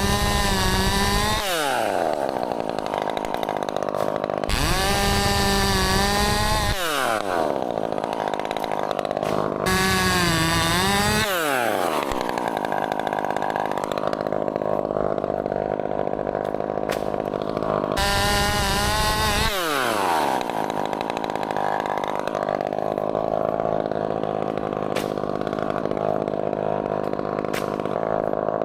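Chainsaw idling, revved to full throttle in four short bursts, each winding back down to idle.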